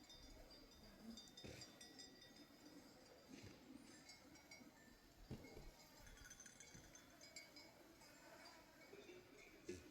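Faint clinking of bells worn by a grazing flock of sheep, scattered high ringing notes with a few soft knocks.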